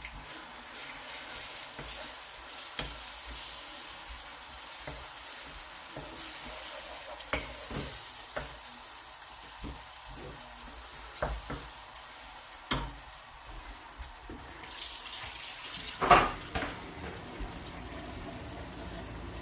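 Water running from a kitchen tap into a sink while a utensil is washed, with scattered clinks and knocks of crockery. A louder clatter comes about three-quarters of the way through.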